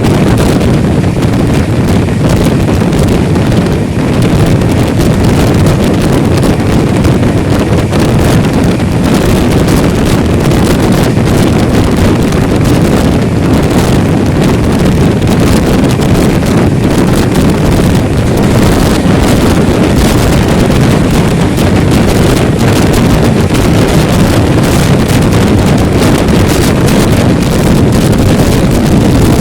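Loud, steady rumble of a passenger express train running at speed, with wind buffeting the microphone.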